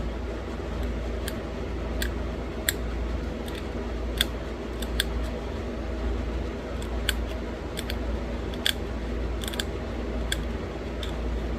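Sharp, irregular clicks and snaps of pressure flaking on a small stone bird point, small flakes popping off the edge as the point is finished, about fifteen in all. A steady low hum runs underneath.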